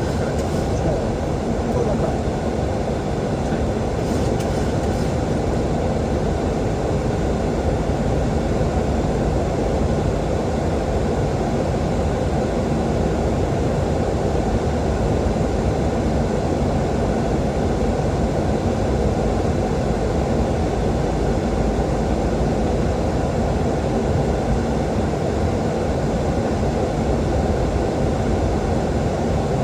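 Steady flight-deck noise of a Boeing 737-800 in descent: an even rumble of airflow and engines that holds level without change.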